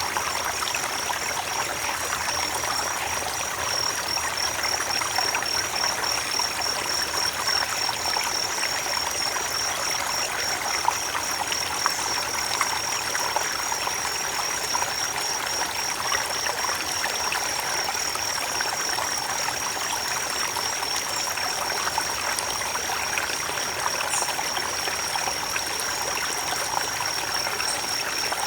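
A creek's water running and trickling over stones, steady and even. A steady, high-pitched trilling tone sounds through it.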